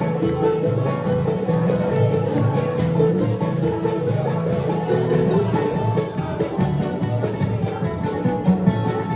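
A bluegrass band playing a song live, with fast, busy string picking.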